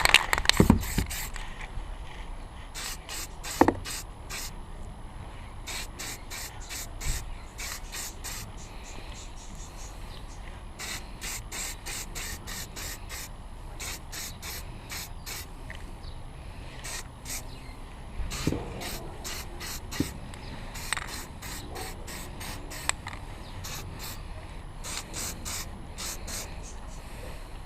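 Aerosol can of zinc phosphate primer spraying in many short hissing bursts, one quick pass after another, with a couple of brief knocks in between.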